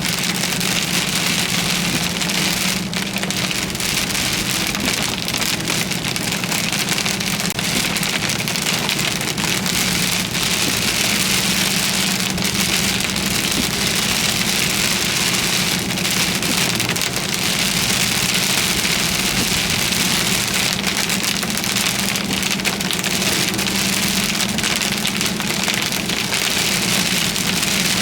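Heavy rain pelting a car's roof and windshield in a steady, dense patter, over a constant low hum from the vehicle.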